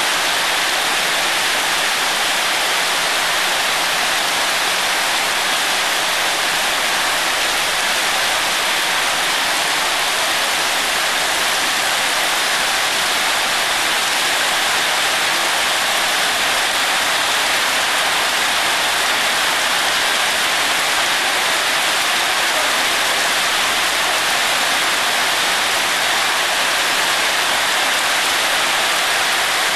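Heavy rain falling steadily, an even dense hiss, with water streaming off the edge of a metal walkway roof onto wet paving.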